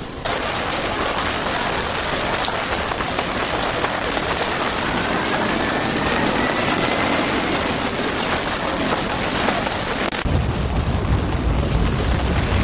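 Steady heavy rain falling on a wet street. A faint rising whine passes midway. About ten seconds in, the sound switches abruptly to a deep low rumble under softer rain.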